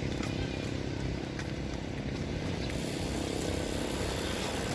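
Steady low rumble of bicycles rolling over a trail, with a few small clicks and rattles.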